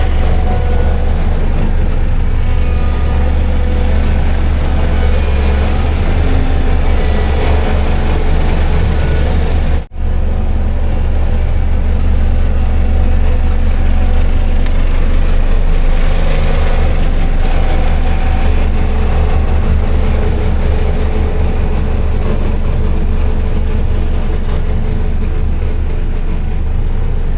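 Heavy diesel engine of an earthmoving machine running steadily under load, deep and loud, with a brief dropout about ten seconds in.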